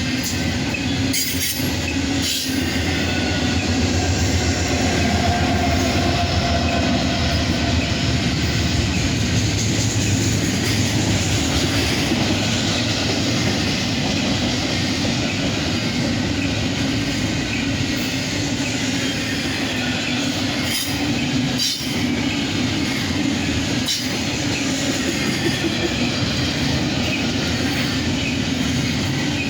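A long Norfolk Southern intermodal freight train rolling steadily past, with continuous wheel-on-rail rumble and a few sharp clacks as wheels cross rail joints.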